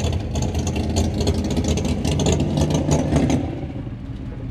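1957 Chevrolet 210's engine running while cruising: a steady low drone with a fast rattling clatter over it. About three seconds in the clatter stops and the engine sound eases off.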